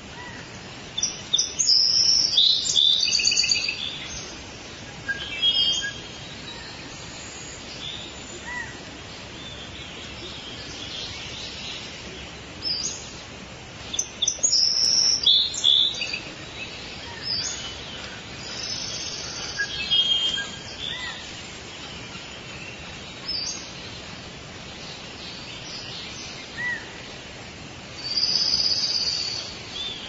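Songbirds singing: repeated phrases of high chirps and trills, some sets louder than others, over a steady background hiss.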